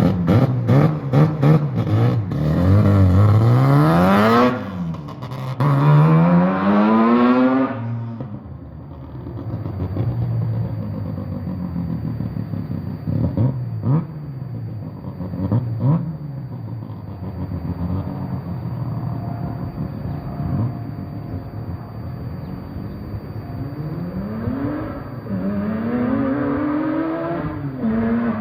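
Car engine being revved: two long climbs and drops in pitch in the first eight seconds, then idling with a couple of short throttle blips, and two more revs near the end.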